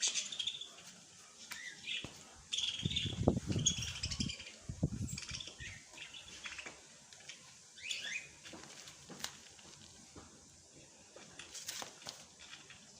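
Small birds chirping and tweeting in short, scattered high calls and quick sweeps, with a few low rustling flutters about a third of the way in.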